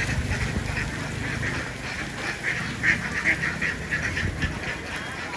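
A flock of ducks quacking, many short calls overlapping continuously, over a low rumble that eases after about two seconds.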